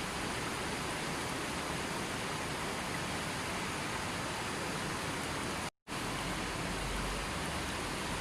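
Steady rushing of a river's flowing water, broken by a sudden gap of silence lasting a split second about two-thirds through, after which the rushing resumes at once.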